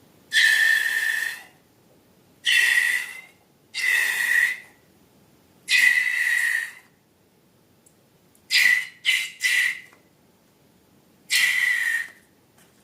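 Air let out of a balloon's neck in short squealing whistles, seven bursts in all, three of them short and quick together about two-thirds of the way through.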